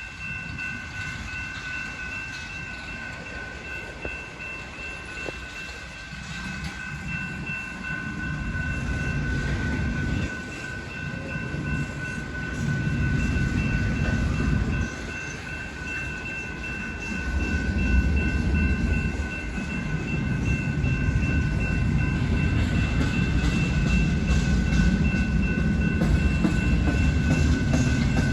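BNSF intermodal freight train rolling past: a low rumble and wheel clatter from the passing cars that swells and grows louder, with surges, over a steady high-pitched tone held throughout.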